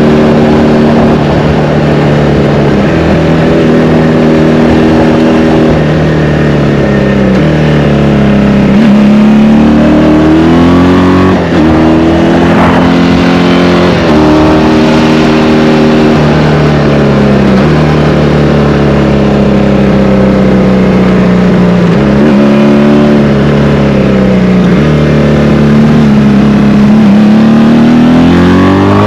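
1984 Honda VF500F Interceptor's 500 cc V4 engine running under load as the bike is ridden, heard from onboard and echoing in a tunnel. The engine note holds steady, rises and falls with the throttle several times, and its pitch steps suddenly between stretches.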